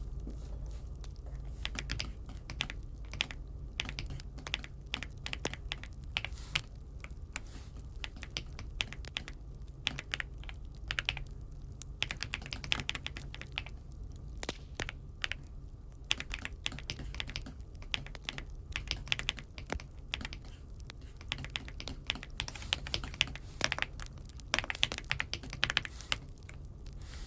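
Aula F75 mechanical keyboard being typed on: irregular keystroke clicks in quick runs broken by short pauses, over a steady low hum.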